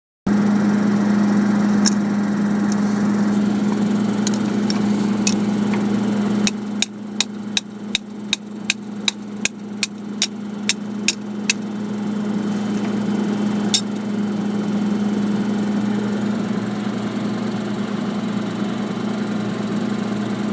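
An engine idling steadily, and midway about a dozen sharp hammer strikes at an even pace of roughly two and a half a second, with one more a couple of seconds later.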